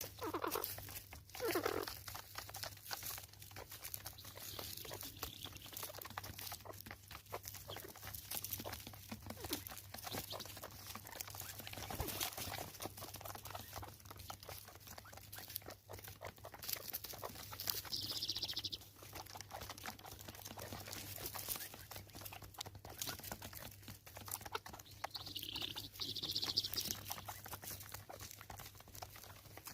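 Helmeted guineafowl squabbling over food: a few harsh calls, with short clicks and crunches throughout. A few high-pitched calls come in the second half.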